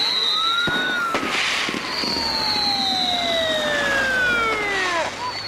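Fireworks going off: several long whistles sliding slowly down in pitch over a few seconds, with bursts of crackle.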